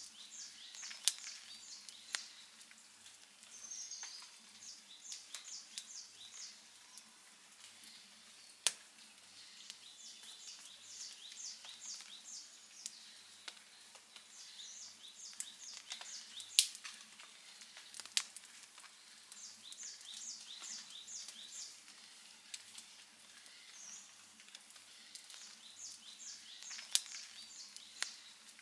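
Outdoor wood campfire crackling, with scattered sharp pops standing out over a soft hiss. Short runs of high chirps, a bird's calls, recur every few seconds behind it.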